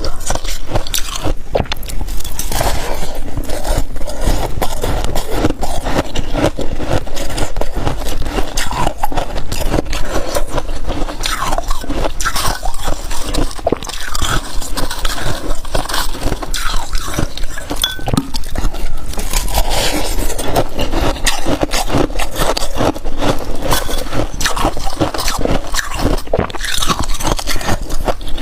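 Close-miked eating of freezer frost: dense crunching and crackling as the soft, powdery frost is bitten and chewed, mixed with scraping, continuous throughout.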